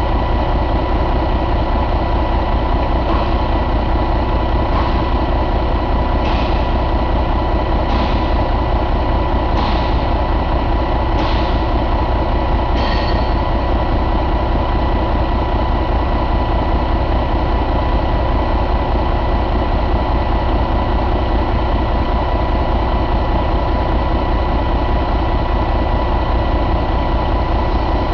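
Detroit DD15 inline-six diesel engine idling steadily. A short, higher sound repeats seven times, about every second and a half, during the first half, then stops.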